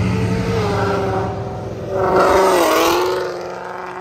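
A Ford Mustang accelerating hard past at close range, loudest about two seconds in, its engine note dipping in pitch and then holding steady as it pulls away.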